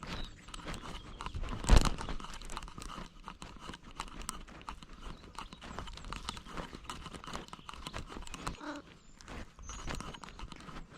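Close-up scuffing and clicking from a GoPro worn by a moving cat: its steps and the camera mount rubbing, with one louder knock a little under two seconds in.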